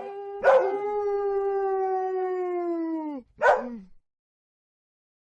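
A dog howling: one long, steady howl of about three seconds that drops in pitch as it ends, with a short bark just before it and a short yelp just after.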